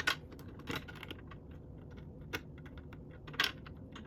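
Lego pieces clicking and clattering as they are handled and pressed together: irregular sharp plastic clicks, the loudest at the very start and about three and a half seconds in.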